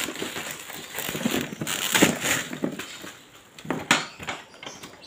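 Packaging being handled: irregular rustling and crinkling with scattered clicks and knocks of hard items being moved, a sharp knock near the end.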